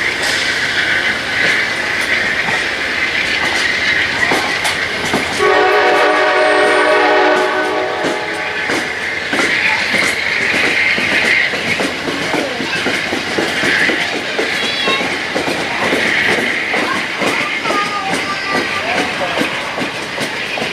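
Train passing close by, its wheels clicking steadily over the rail joints. About five seconds in, the locomotive's horn sounds one long blast lasting roughly two and a half seconds.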